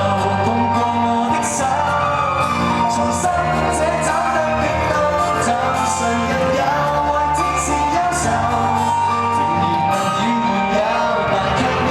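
Live pop band music: sustained instrumental notes over a steady beat, with cymbal hits throughout.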